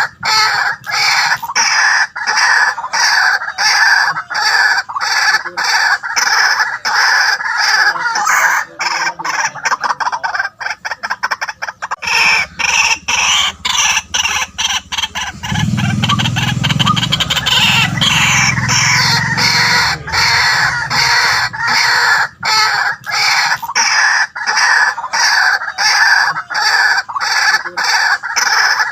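White-breasted waterhen calling: a loud, rapid run of harsh repeated notes, about two a second, kept up without a break.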